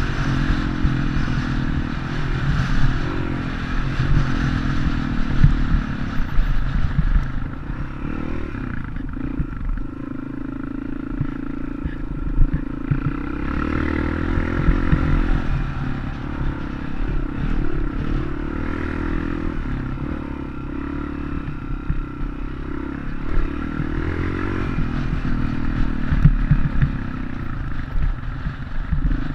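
Dirt bike engine running while being ridden, its pitch rising and falling with the throttle over a heavy low rumble.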